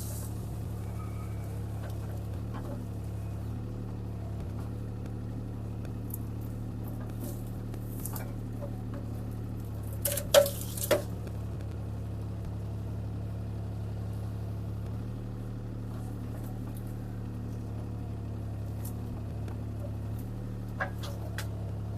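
CAT 303C CR mini excavator's diesel engine running steadily under work, with a few sharp knocks and clatters from the machine and the brush it handles, the loudest a pair about ten seconds in.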